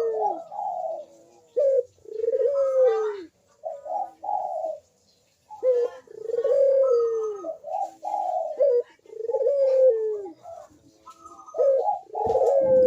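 Puter dove (ringneck dove) calling steadily, giving the 'kuk-deruk' coo over and over: a run of low coos with short breaks, each one arching and falling in pitch at its end.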